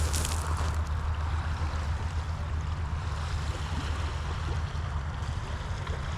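Motorcycle engine running steadily while riding, a low rumble under wind rushing over the microphone.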